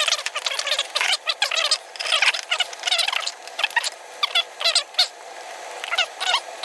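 Birds chirping and chattering, a quick run of short high calls one after another.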